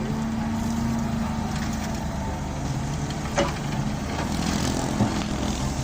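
Excavator's diesel engine running steadily as it loads sand into a truck, with scattered rattling clicks and a sharp knock about three and a half seconds in.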